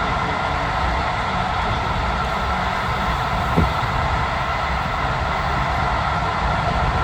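Passenger train running steadily along the track, a continuous rumble and hiss with one short knock about halfway through.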